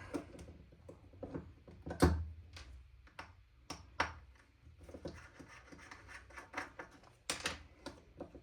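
Scattered small clicks, scrapes and knocks of an airsoft rifle's parts being handled while it is taken apart, with a heavier knock about two seconds in.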